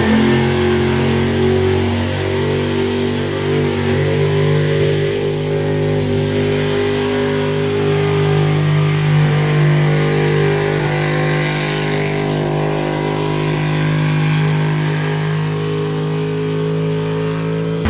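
Engine of a pulling truck or tractor running loud at high, steady revs, holding one pitch throughout, as under load during a pull.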